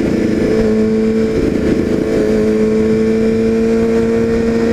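Sport motorcycle engine running steadily while riding, its pitch creeping up slightly, with wind buffeting the helmet-mounted microphone.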